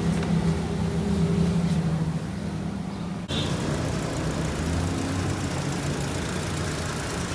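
Honda City's four-cylinder petrol engine idling steadily on freshly changed engine oil. The sound changes abruptly about three seconds in.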